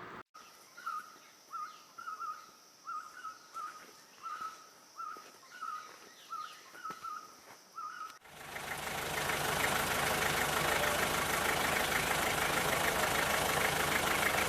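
An animal, most likely a bird, repeats a short chirping call at a steady rate of about three calls every two seconds. After about eight seconds it cuts suddenly to a loud, steady rushing noise.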